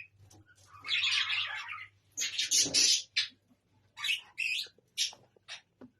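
Budgerigars chattering and squawking in loud bursts about a second long, then a run of shorter separate calls in the second half.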